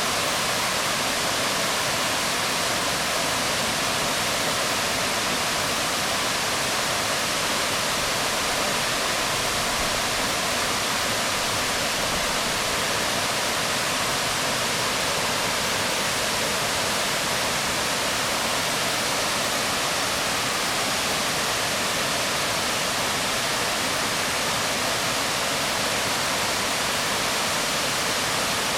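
Waterfall splashing onto rocks: a steady, even rush of falling water with no change throughout.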